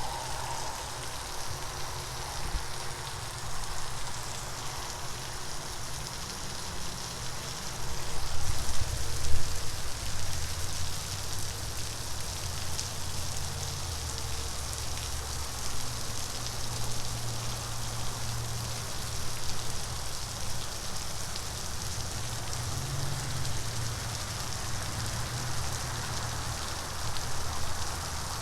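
Steady hiss of a park splash-pad water feature spraying and splattering, with low rumbles on top, loudest about eight to ten seconds in.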